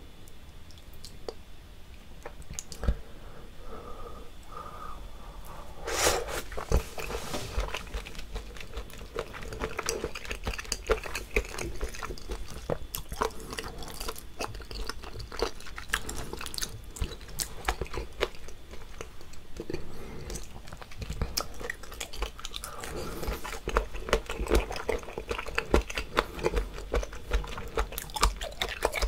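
Close-miked chewing of chewy boiled and raw seafood, with wet smacking and clicking mouth sounds. Sparse for the first few seconds, then a loud bite or slurp about six seconds in, followed by continual chewing.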